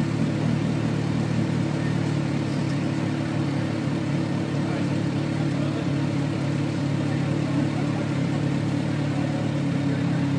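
A vehicle engine running steadily at a constant speed, a continuous low hum with no change in pitch.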